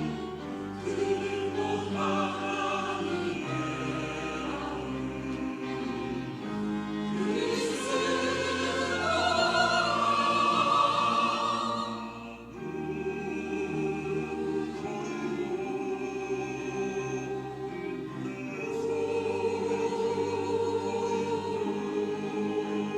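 Church choir singing, growing to its loudest about halfway through, breaking off briefly, then carrying on.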